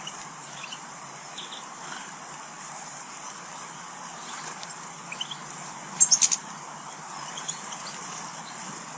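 Small garden birds at a feeder giving soft, scattered chirps over a steady background hiss. A quick run of four sharp, loud clicks comes about six seconds in.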